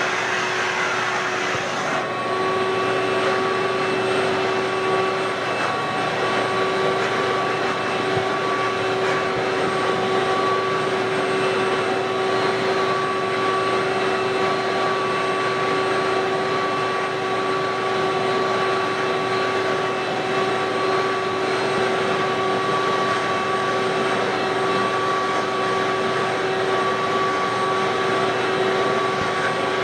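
Ridgid WD1450 wet/dry shop vacuum running steadily, a broad rushing noise with a steady motor whine; the hiss softens slightly about two seconds in.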